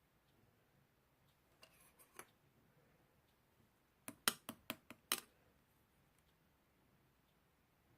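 A few soft ticks about two seconds in, then a quick run of about six sharp clicks lasting about a second, starting about four seconds in.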